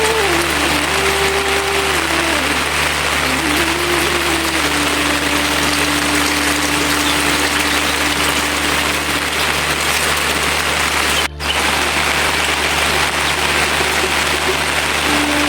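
Steady rain, an even hiss, over a low steady hum, with a faint tone that wavers for the first few seconds and then holds steady. The sound drops out for an instant about eleven seconds in.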